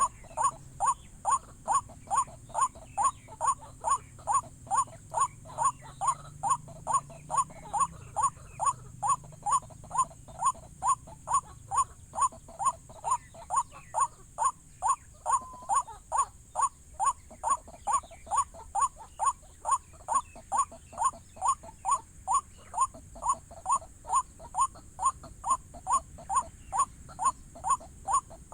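White-breasted waterhen's call, a short 'wak' note repeated steadily about twice a second.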